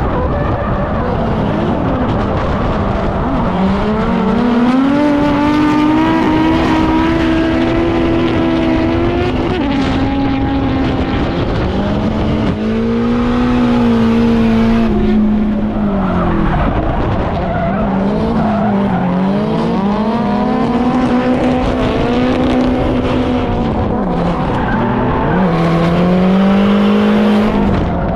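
Drift car's engine held at high revs, its pitch sagging and climbing again several times as the throttle is worked, with tyres skidding and squealing under it.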